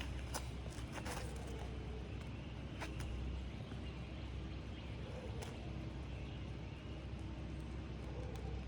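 Occasional sharp clicks and faint scraping as a pry bar breaks the sealant strips of asphalt shingles, over a steady low rumble.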